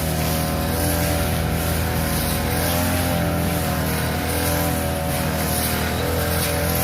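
Small petrol engine of a grass-cutting machine running steadily at working speed while cutting grass, its pitch wavering slightly with the load.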